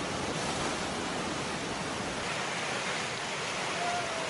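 Heavy downpour of rain mixed with hail, a dense steady hiss. About halfway through it turns brighter and loses some of its low rumble, and a short faint tone sounds near the end.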